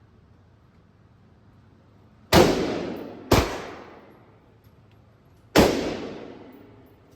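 Three gunshots: the first two about a second apart, the third about two seconds later. Each is a sharp crack followed by a long echoing decay.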